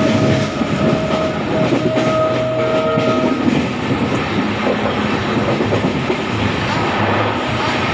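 Passenger train running at speed, heard from on board: a steady rumble and rattle of wheels on the rails. A horn sounds in a few held, broken blasts during the first three seconds or so.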